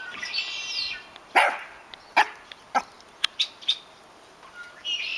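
A dog barks three times, about a second in and twice more over the next second and a half. Small birds chirp at the start and again near the end.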